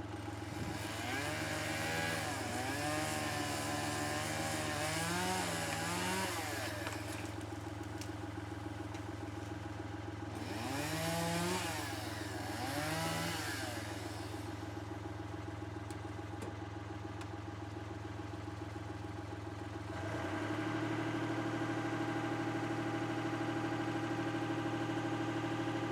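An engine running steadily, probably the lift's engine, picks up to a higher, louder speed about twenty seconds in. Twice over it, a second sound wavers up and down in pitch for a few seconds.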